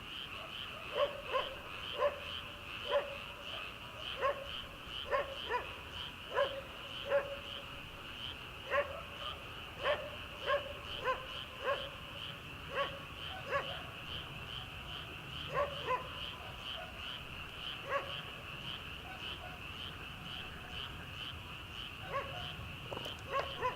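A chorus of rice-paddy frogs keeps up a steady, fast pulsing trill, while a distant dog barks over it again and again in short, irregular runs.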